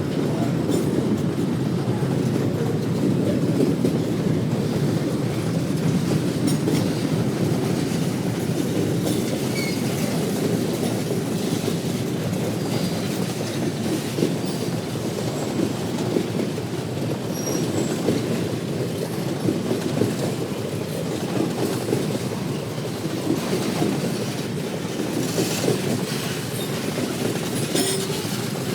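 Freight train cars rolling past in a steady rumble, with wheels clicking over the rail joints and brief faint wheel squeals now and then.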